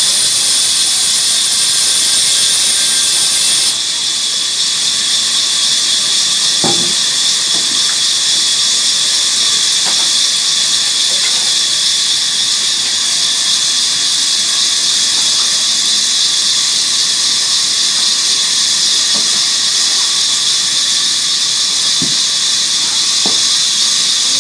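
Sawmill saw running with a steady high-pitched whine and hiss. The shrill top of the sound drops away about four seconds in, and a few faint knocks come later.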